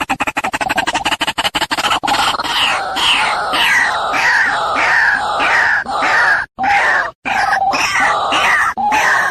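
White-breasted waterhen (ruak-ruak) calling loudly, a recorded lure call for bird trapping. It opens with a fast rattling run of pulses, then settles into harsh, repeated croaking notes about twice a second, broken by two short gaps past the middle.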